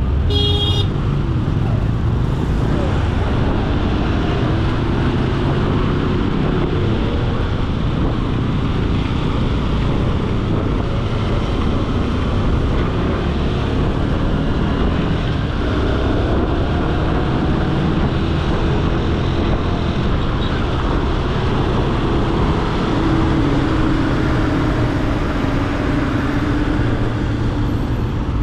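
Motorcycle riding in city traffic: steady engine and road noise over a heavy low rumble, the engine's pitch rising and falling as it speeds up and slows. A brief high-pitched beep sounds about half a second in.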